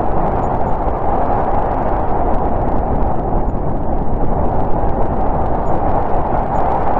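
Steady howling winter wind of a snowstorm, a loud even rush with slow swells in strength.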